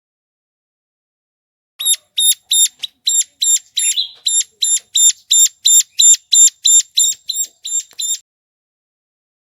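Ciblek gunung, a prinia, calling from a looped lure recording: a fast run of identical sharp, high chip notes, about three a second, starting about two seconds in and stopping about a second before the end.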